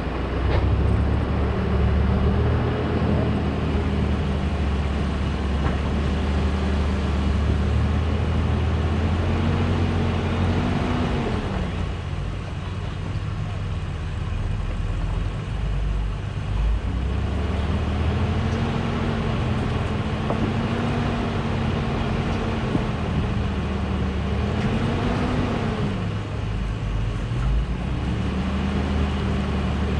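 Truck engine running under load on the trail, revs holding steady and then swelling up and falling back twice, about a third of the way in and again near the end.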